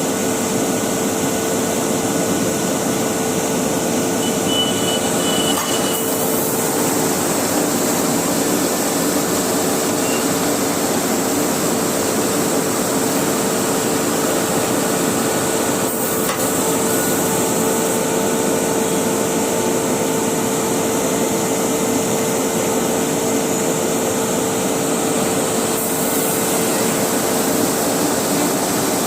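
A machine running steadily: an even, noisy drone over a constant humming tone, with a few faint knocks.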